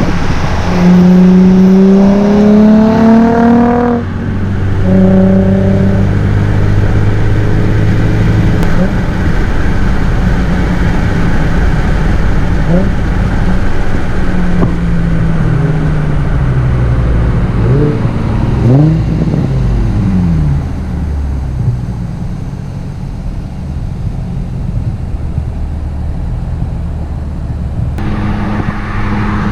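Nissan 350Z's VQ35DE V6 through an ISR single-exit catback exhaust, revved so that its note climbs for about four seconds and then drops. A steadier low drone follows, with several further rises and falls in pitch about midway.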